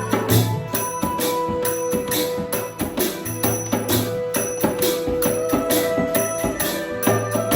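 Devotional kirtan music: jingling metal percussion such as hand cymbals struck in a steady, fast rhythm with drum beats, over long held melodic tones.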